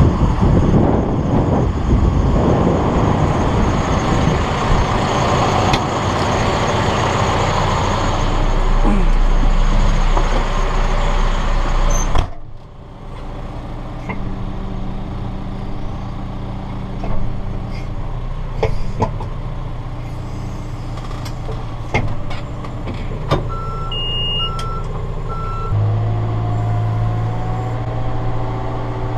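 Diesel engine of a piece of heavy digging equipment running, loud and noisy at first. After a break it runs more steadily, with three short beeps about two thirds of the way through and a rise in engine pitch near the end.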